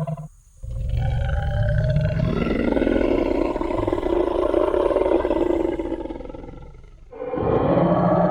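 Tyrannosaurus rex roar sound effect. One roar cuts off just as the clip begins; after a short pause a long, deep, rumbling roar runs about six seconds and slowly fades. Another roar starts near the end.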